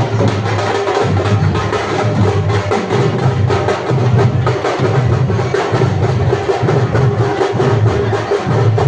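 Music: fast, steady drumming from a South Indian folk percussion ensemble, with dense quick strokes over deeper, regular beats.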